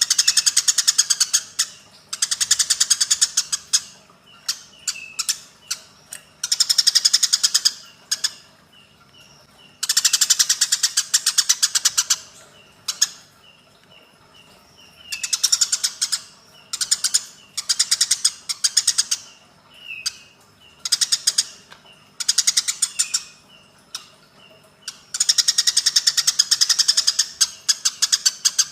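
Eurasian tree sparrows giving harsh, rapid chattering fighting calls. The calls come in bursts of a second or two every few seconds, with short single chirps between them.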